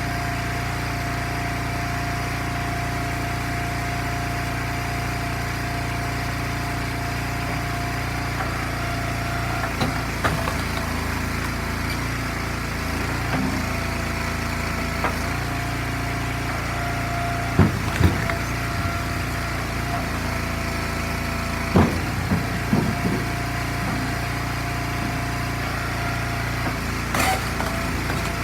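Gas engine of an Eastonmade log splitter running steadily, with a few scattered knocks and clunks over it.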